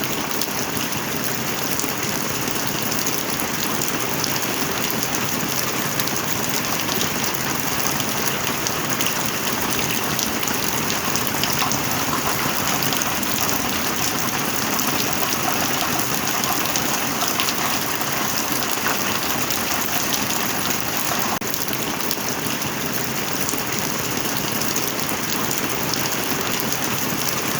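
Rain falling steadily: a dense, even hiss of many small drops hitting a surface, with no thunder.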